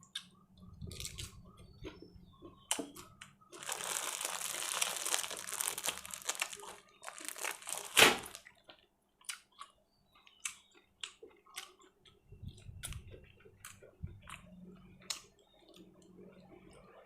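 Close-up eating sounds from someone eating spicy grilled-pork salad (nam tok moo) with sticky rice: chewing with scattered wet clicks and crunches. There is a longer rustling stretch about four to seven seconds in and a sharper burst about eight seconds in.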